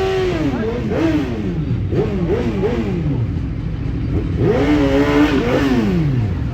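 Sport motorcycle engine being revved in repeated throttle blips, the pitch jumping up and falling away several times, then held higher for about a second near the middle before dropping back to idle.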